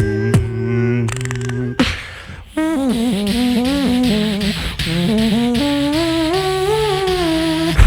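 Live vocal beatboxing by a duo: a held, hummed bass drone with sharp clicks, a brief drop about two seconds in, then a wavering, bending hummed melody over a breathy hiss.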